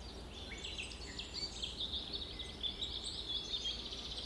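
Birds chirping in a fast, busy run of short high chirps, with a faint steady low hum underneath.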